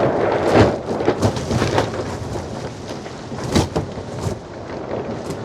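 Strong wind gusting against a polytunnel, its plastic cover flapping and snapping in an irregular run of sharp cracks over a steady rushing noise.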